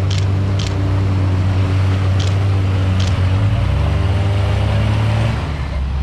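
Off-road 4x4's engine pulling at steady revs as the vehicle drives through a deep, muddy, water-filled track, its pitch shifting about four seconds in. A few short sharp clicks sound over it.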